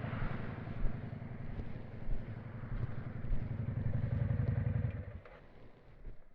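1991 Yamaha XV535 Virago's air-cooled V-twin with a custom exhaust, running with a steady low pulsing beat, then switched off about five seconds in, its sound dying away quickly.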